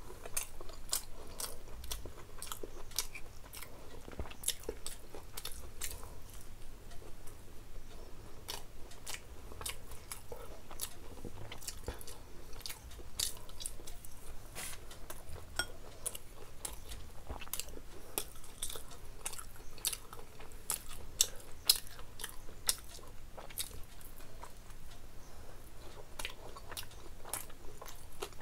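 A person chewing a crisp fried samosa, the pastry crunching in many sharp, irregular crackles.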